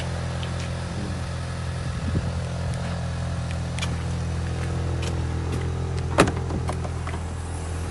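Ford Explorer's four-cylinder engine idling steadily after a remote start, with one sharp latch click about six seconds in as the rear liftgate is released.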